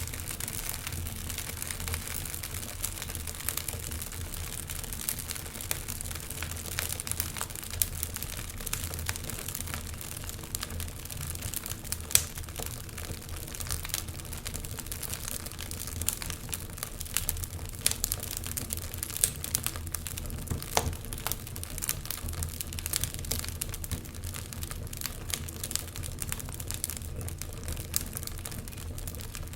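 Wood fire burning and crackling: frequent small sharp pops and snaps over a steady low rumble, with one louder pop about twelve seconds in.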